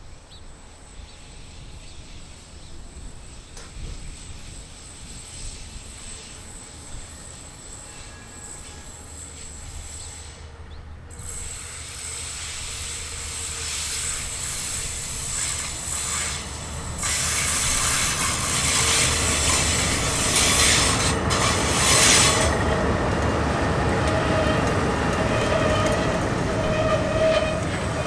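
A train approaching and passing close. It grows steadily louder from about halfway through and is loudest over the last third, with the steel wheels squealing against the rails.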